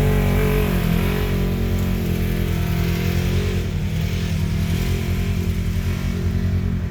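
Polaris RZR side-by-side engine running steadily, with a slight pulsing in its note toward the end.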